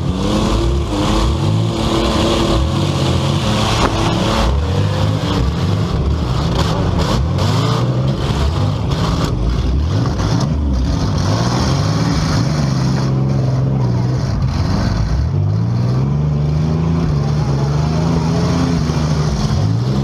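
Compact cars' engines revving in a demolition derby, their pitch rising and falling again and again, with a run of sharp knocks and bangs from metal hitting metal in the middle.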